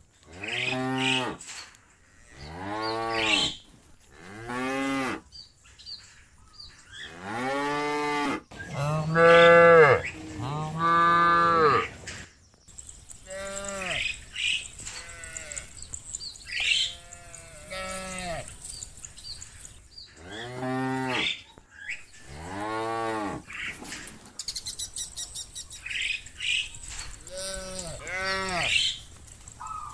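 A herd of cattle mooing, one long call after another from different animals, with the loudest pair about ten seconds in. The cows are calling as they are driven home to the pen.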